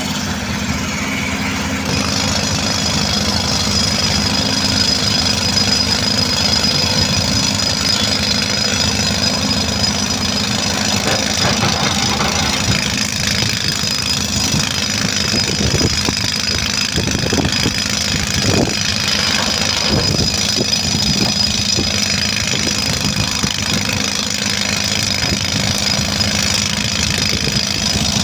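Heavy diesel engine running steadily, with a steady high whine over it and a run of sharp knocks or clanks near the middle.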